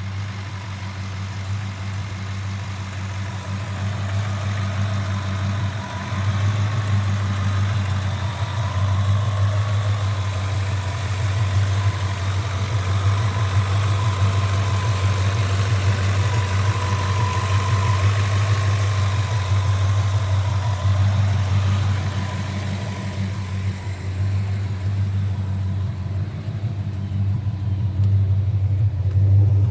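1957 Chevrolet's fuel-injected 327 V8 idling steadily.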